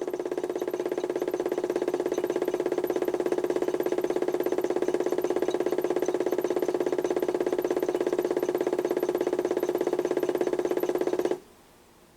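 A HUSTOO 775 DC motor in a modified toy washing machine, driving the drum through a belt and pulley under PWM speed control, runs with a steady whine and a fast even ripple. It builds a little over the first couple of seconds, holds steady, then cuts off about eleven seconds in.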